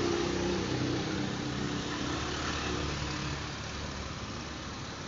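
A motor vehicle's engine running, heard over a steady rush of road and wind noise; the engine note fades after the first few seconds.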